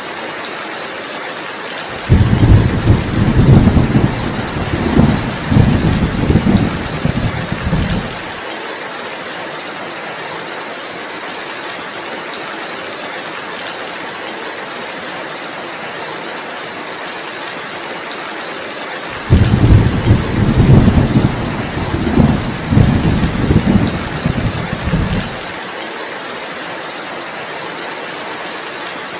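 Steady heavy rain, with two rolls of thunder of about six seconds each, the first about two seconds in and the second near twenty seconds in; each starts and cuts off abruptly and is much louder than the rain.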